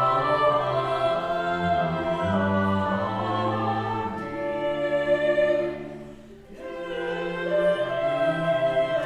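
Early Russian music sung by a vocal ensemble with instruments, held notes moving in steps. It briefly thins to a quiet moment about six seconds in, then resumes.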